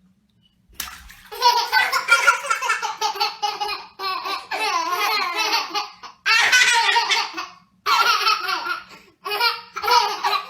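A baby laughing hard, high-pitched and pulsing, in several long bouts with brief breaks between them, starting about a second in.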